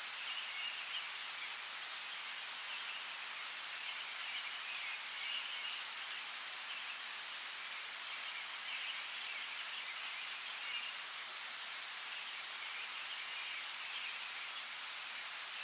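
Steady rain, with individual drops ticking sharply now and then, under a chorus of high chirping calls that comes and goes.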